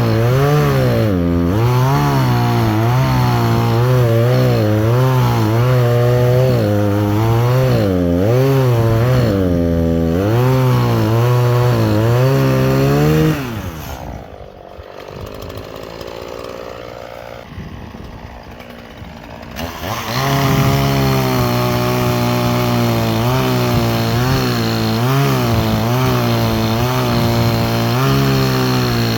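Two-stroke chainsaw running at high revs and cutting wood, its pitch wavering as the bar is loaded in the cut. Less than halfway through the revs fall away and the saw drops to a much quieter idle for about six seconds, then is throttled back up to cut again. The chain is old and dull, throwing sawdust instead of chips.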